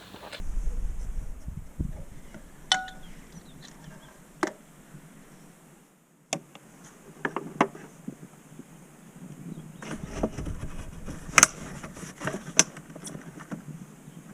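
Scattered metallic clinks and knocks, some ringing briefly, over low rumbling, with a short break about six seconds in.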